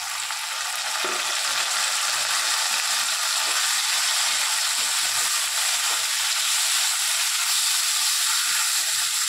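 Raw prawns and potato pieces sizzling in hot mustard oil in a kadai as they are stirred with a spatula: a loud, steady frying sizzle that swells slightly in the first second.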